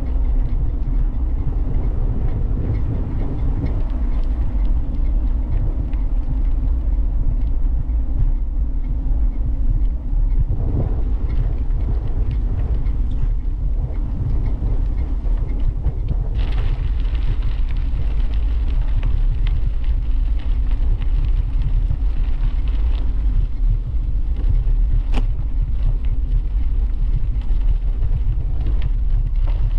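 Wind buffeting the microphone of a camera on a moving bicycle, with tyre noise: a steady low rumble. About halfway through, a brighter hiss joins it, and a single sharp click comes near the end.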